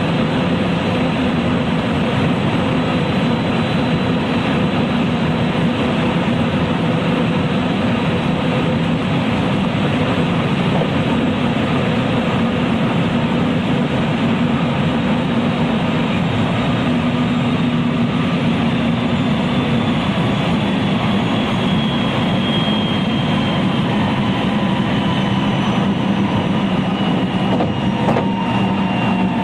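Running sound inside a JR West 223 series electric train's motor car (KuMoHa 223-3016): a steady rumble of wheels on the track, with a thin motor whine sliding down in pitch over the last ten seconds or so as the train slows.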